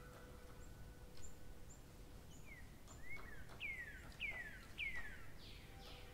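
Birds chirping over a low background hiss: scattered short high chirps, then from about halfway a run of three falling whistled calls.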